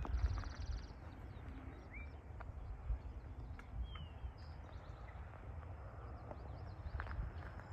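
Open-prairie ambience: a steady low rumble, with a few short, scattered bird chirps and a brief high buzz near the start.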